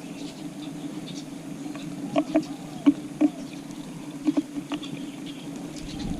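Tree sparrows pecking grass seed off a tile floor: irregular sharp taps of beaks on the tiles, the loudest about two to five seconds in. A steady low hum runs underneath.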